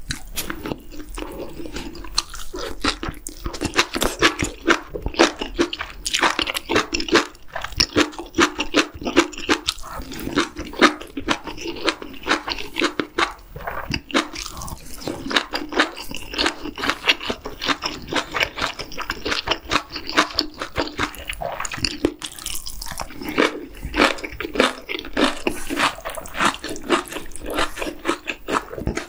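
Close-miked eating sounds: a continuous run of wet chewing, smacking and biting as a mouthful of sausage and noodles is eaten.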